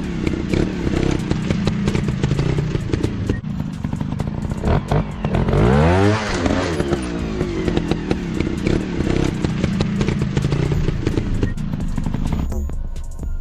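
Off-road trail motorcycle engine running and revving, with sharp clicks and clatter over it; about halfway through the revs climb steeply and drop back.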